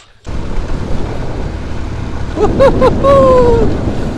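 Motorcycle riding at speed, heavy wind rushing over the helmet-mounted camera's microphone with the engine underneath, starting abruptly just after the start. About two and a half seconds in, a voice calls out over it in a few short whoops and then one drawn-out, falling call.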